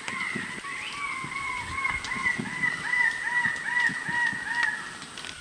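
A bird calling a long series of loud, repeated notes, about three a second, each note rising and falling in pitch.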